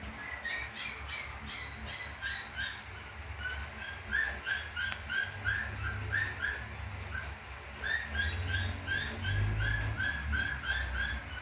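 A small bird chirping over and over in quick short notes, about three a second, in three runs with brief pauses between them. A low rumble sits underneath and swells near the end.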